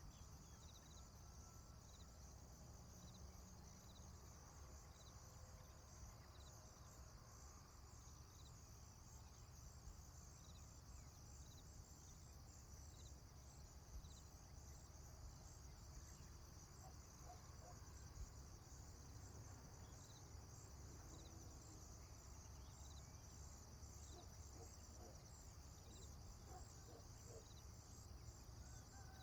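Faint rural ambience dominated by crickets chirping in a steady, high, rapidly pulsing chorus over a low rumble. A few short faint calls, likely birds, come in during the second half.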